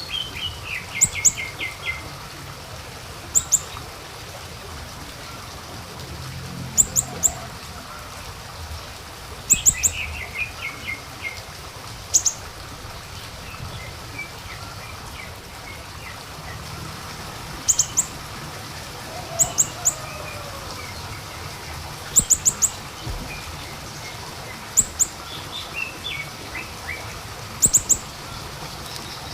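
Siri-siri bird song played as a lure. Sharp, very high double chips come every two to three seconds, with a few quick trills of falling notes in between, over a steady background hiss.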